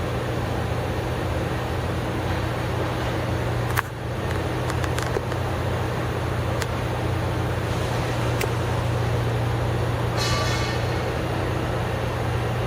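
An engine running steadily with a constant low hum, with a few sharp knocks and a short higher-pitched noise about ten seconds in.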